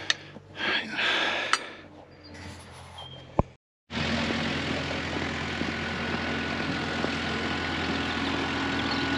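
A few light knocks and a sharp click, then after a brief dropout a steady engine drone with a low hum sets in and holds.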